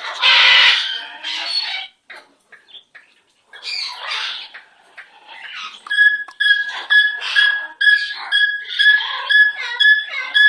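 A bird calling: a harsh squawk at the start, then scattered calls, and from about halfway on a run of short, same-pitched calls about two a second.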